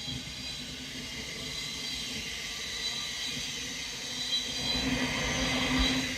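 A train running on the main line: a steady rumble with thin high whines, getting louder over the last second or two as a low hum comes up.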